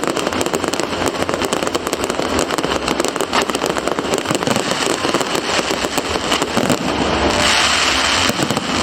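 Fireworks crackling in a dense run of rapid pops, with a loud hiss joining about seven seconds in.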